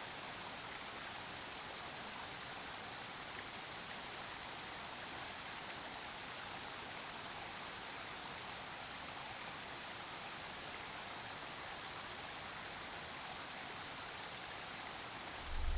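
Small waterfall splashing, a steady even rush of falling water. A low rumble cuts in at the very end.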